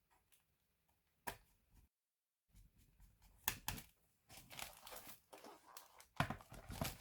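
Crinkling, tearing-like handling noise with sharp clicks, in irregular bursts, with a brief dead gap about two seconds in.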